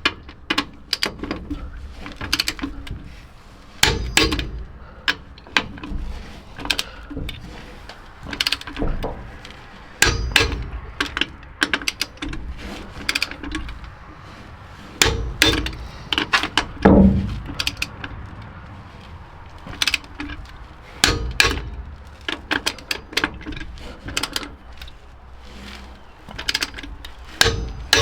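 Hand tools and metal brake parts clicking, clinking and ratcheting in an irregular run of sharp knocks during rear drum brake work on a 1970 Chevrolet C10, with one heavier thud about midway.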